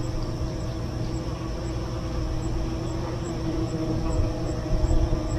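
Honeybees humming around the hive: a steady drone with a low rumble under it, and a faint, regular high ticking about twice a second.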